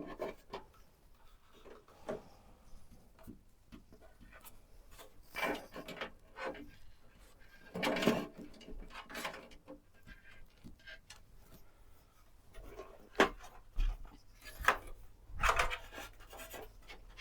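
Computer parts being handled during a PC build: irregular clicks, taps and short rubbing scrapes, the loudest about halfway through and a cluster of sharp clicks near the end.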